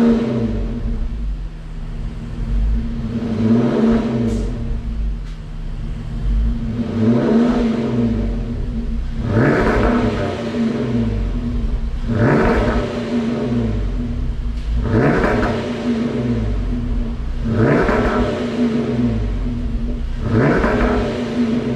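Porsche Cayenne 3.6 V6 naturally aspirated engine revved through an aftermarket transverse muffler with single left and right outlets, blipped up and back down about every three seconds and settling to idle between revs.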